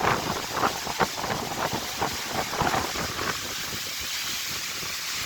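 Strong windstorm gusts buffeting the microphone in irregular surges for about three seconds, then easing to a steady rushing hiss.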